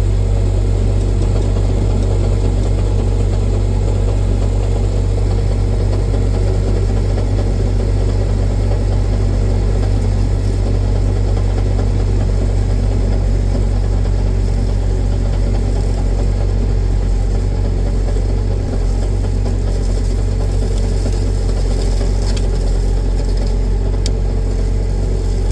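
Ford 8830 tractor engine running steadily under load with a hedgecutter working, a loud, even, deep drone that does not change.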